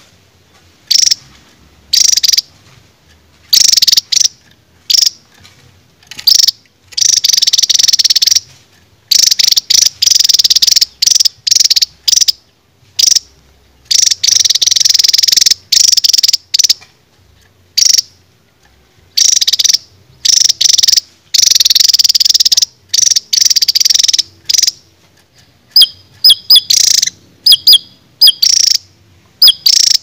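Caged Javan tesia singing: loud, rapid high-pitched phrases lasting a second or two each, separated by short pauses, with a run of short sharp notes near the end.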